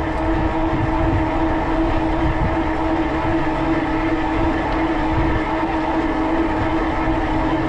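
Electric bike riding along a paved trail: a steady whine from the rear hub motor over low wind rumble on the microphone and tyre noise.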